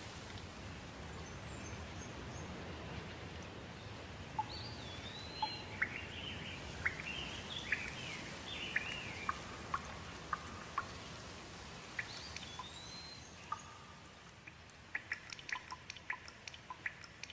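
Steady rain hiss with small birds chirping over it in short rising and falling whistled notes. The rain eases about two-thirds of the way through, and a quick run of sharp drips follows near the end.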